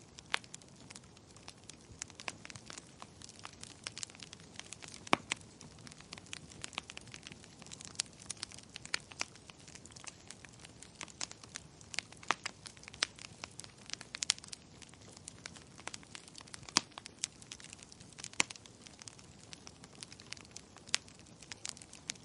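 Wood fire in a fireplace crackling, with irregular sharp pops and snaps, some much louder than the rest, over a soft steady hiss.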